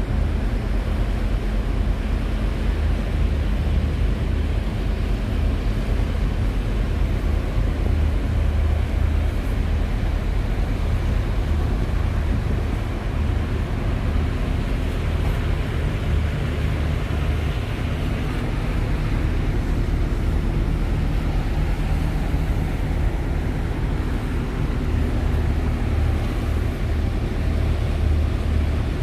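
Cruise boat's engine running steadily with a low, even hum, under a constant rushing noise.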